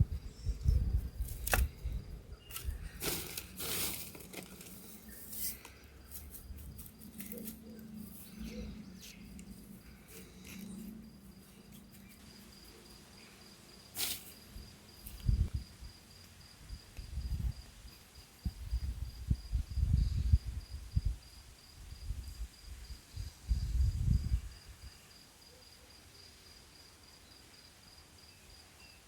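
An insect trill: a high, evenly pulsing chirp that runs steadily through the second half. It is joined by sharp cracks and clicks in the first few seconds and by loud low thumps in the middle, and only the trill is left near the end.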